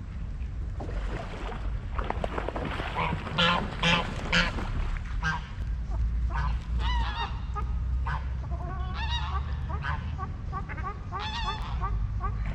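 Waterfowl honking in a string of calls, three loud ones about three to four and a half seconds in, then a run of shorter, quicker calls, over a steady low rumble.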